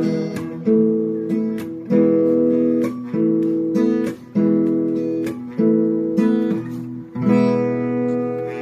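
Acoustic guitar strumming chords, roughly one strum a second, with each chord left to ring: the instrumental close of the song.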